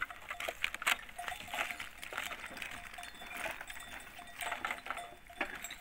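A flock of goats and sheep moving about, with their neck bells clinking in short, irregular rings.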